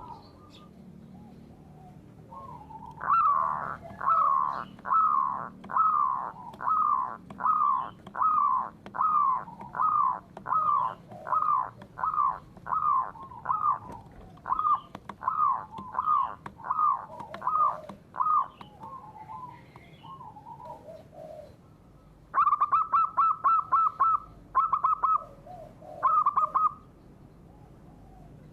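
Birdsong: a bird repeats a short downward-slurred note about twice a second for some fifteen seconds. After a short pause come several bursts of fast trilled notes.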